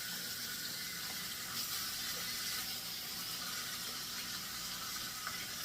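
Chicken thighs sizzling steadily skin side down in hot oil in a skillet, a pan the cook thinks is overcrowded.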